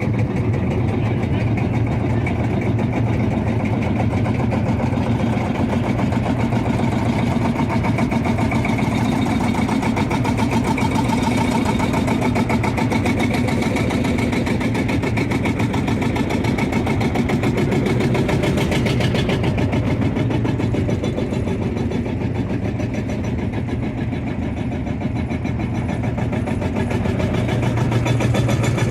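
Tractor engine running steadily with a rapid, even beat, dipping slightly in level for a few seconds past the middle.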